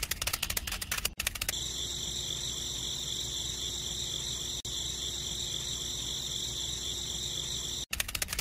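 Rapid clicking for about the first second and a half, then a steady high-pitched trill with a faint hum that stops abruptly near the end, when the rapid clicking returns.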